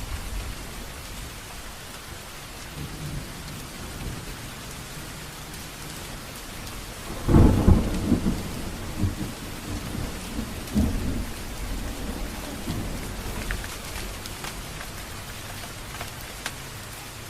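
Steady rain falling, with a loud roll of thunder about seven seconds in that rumbles on and fades over the next few seconds.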